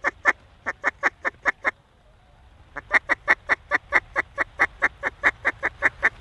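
Loud hen-mallard-style quacking in two evenly spaced series: about six quacks, a short pause, then a longer run of about eighteen at roughly five a second.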